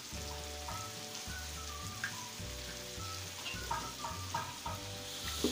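Beef with ground spice paste sizzling as it fries in a large aluminium wok, with a metal spatula scraping and turning it.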